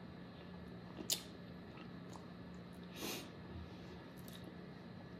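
Quiet pause between bites: a sharp click about a second in and a short breathy sniff about three seconds in, over a low steady hum.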